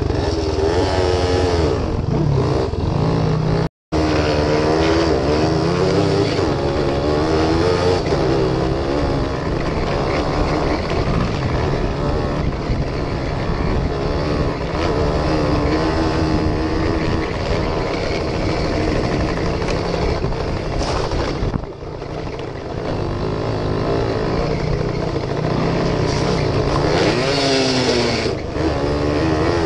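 Suzuki RV75's small two-stroke single-cylinder engine running under way on a dirt track, its pitch rising and falling as the throttle opens and closes. The sound cuts out for a moment about four seconds in.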